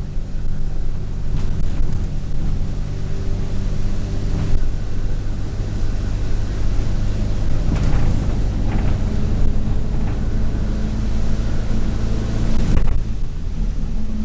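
Alexander Dennis Enviro200 single-decker bus heard from inside while under way: the diesel engine runs with a thin, high-pitched turbo whine, and short rattles and knocks come from the body and fittings. About a second before the end the whine cuts off sharply with a knock, and the engine note drops.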